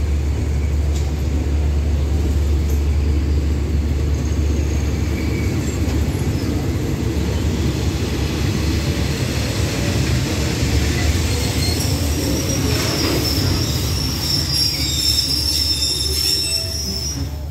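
Diesel-hauled passenger train at the platform, a steady low engine drone throughout, with a high-pitched metallic squeal coming in over the last few seconds.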